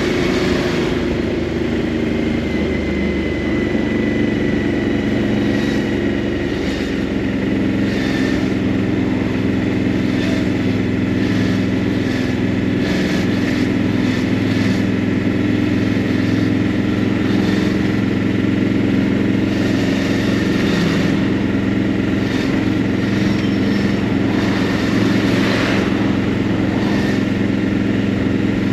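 Motorcycle engine running steadily at an even, low pitch as the bike rolls slowly through a traffic queue, heard from the rider's seat.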